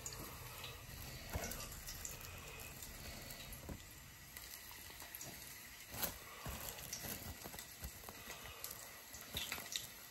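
Hot oil sizzling as sliced garlic is added to fry into garlic chips, with a few short crackles and rustles.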